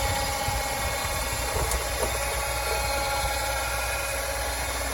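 An engine running steadily at idle, with a constant hum and a light rattle.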